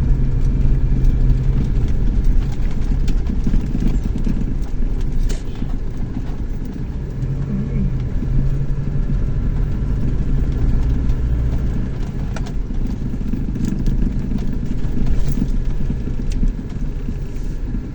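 Chevrolet S10 pickup driving: a steady low engine drone with road noise and a few light knocks, easing slightly about six seconds in.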